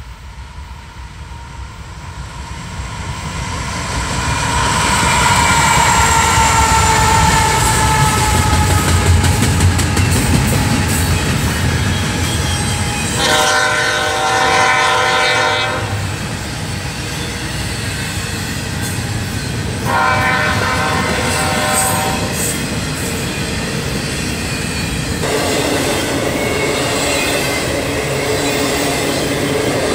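CSX intermodal freight train passing at speed. Its horn sounds as the locomotives come up, the pitch sliding down as they go by, then the steady rumble and clatter of double-stack container cars. Two more shorter chord-like tones come about 13 and 20 seconds in.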